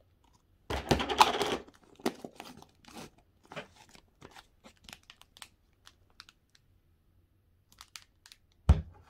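Plastic slime container and packaging being handled: a loud crinkling rustle about a second in, then scattered small crackles and clicks. A single thump near the end.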